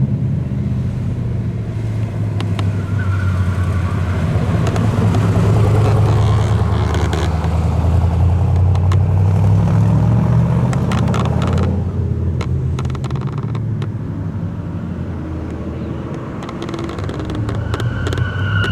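A vintage car's engine running with a deep, steady rumble. It swells a little midway, then eases off and picks up again near the end.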